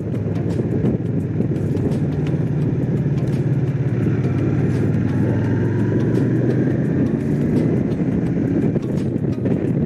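Honda CX500's V-twin engine running at a steady, even pitch while riding, over road and wind noise.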